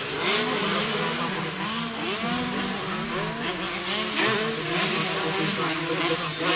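Several 125cc motocross motorcycle engines running together, their pitch rising and dropping again and again as they are revved and accelerated.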